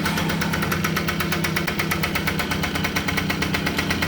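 Yamaha Chappy's single-cylinder two-stroke engine idling steadily, with a rapid, even putter.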